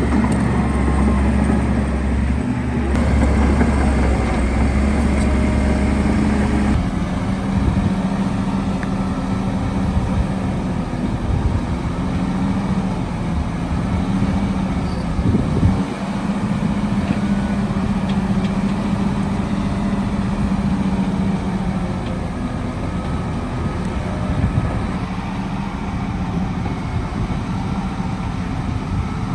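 Heavy diesel construction machinery running steadily, its low engine hum changing character abruptly about seven seconds in.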